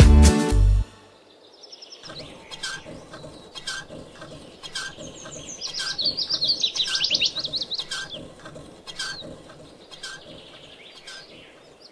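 A music track ends within the first second, giving way to small birds singing: chirps and rapid trills, loudest around the middle, over short notes repeating about twice a second.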